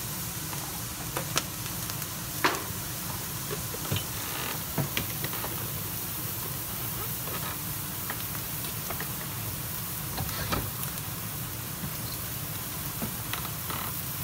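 Beef and vegetables sizzling steadily in a stainless steel wok over a gas flame, with a few sharp clicks and knocks scattered through, the loudest about two and a half seconds in.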